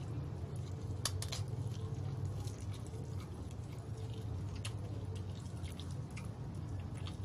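A person biting and chewing fried chicken: wet mouth sounds with scattered short crunchy clicks, the sharpest pair about a second in, over a steady low hum.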